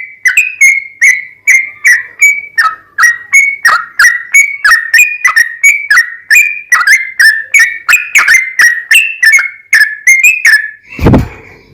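Yellow-vented bulbul (trucukan) singing a long, fast series of short, whistled chirps, about two to three a second. A brief low rumble comes near the end.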